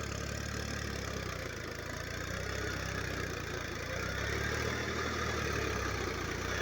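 Tractor engine running steadily while ploughing, growing a little louder about four seconds in.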